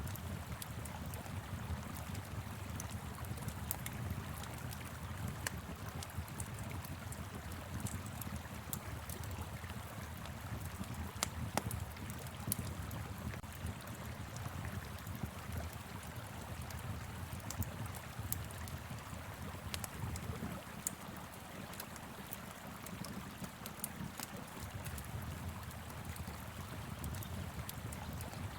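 Fire pit crackling, with scattered sharp pops, over the steady low rush of a flowing river.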